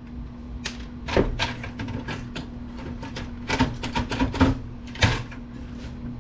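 Irregular sharp clicks and knocks of a screwdriver and metal hardware against a desktop PC's steel chassis as a hidden screw holding the motherboard is worked loose.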